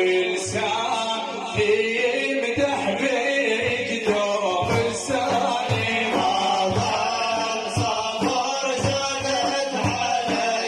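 Arabic religious praise chanting (madih): sustained, wavering vocal lines, possibly with backing voices, over a regular drum beat.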